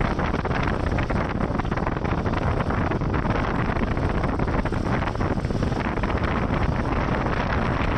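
Steady wind buffeting a microphone, a dense rushing noise heaviest in the lows.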